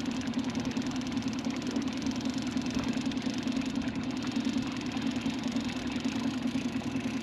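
Boat's outboard motor running steadily at low trolling speed, with an even drone that does not change.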